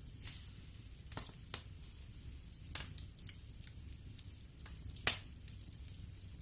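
Wood fire burning in a fireplace: a low steady rumble of flame with scattered sharp crackles and pops, the loudest pop about five seconds in.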